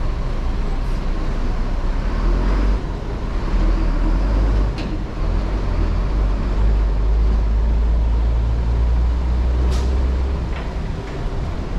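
A heavy motor vehicle's engine running close by in street traffic: a deep, steady rumble that builds about two seconds in and eases off near the end, with a couple of short clicks on top.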